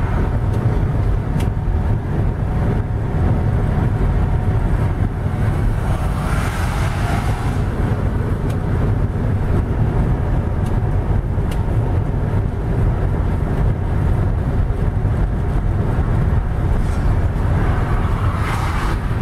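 Motocross bike engine running under heavy wind rumble on the microphone, its note swelling briefly about six seconds in and again near the end.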